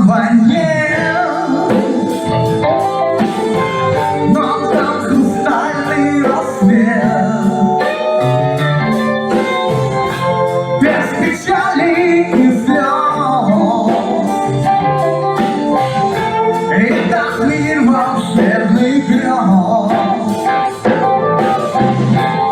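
A band playing a song: singing over guitar and bass, with a steady beat.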